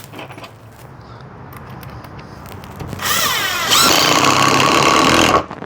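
Avid Power cordless impact driver running under the trigger for about two seconds, starting about three seconds in. Its pitch rises as it spins up, then holds steady, and it cuts off sharply near the end. Before it, faint handling clicks.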